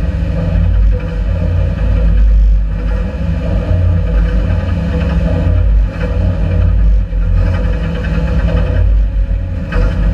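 Folkrace car's engine running, heard from inside the stripped, roll-caged cabin: a loud, steady low drone that wavers in level.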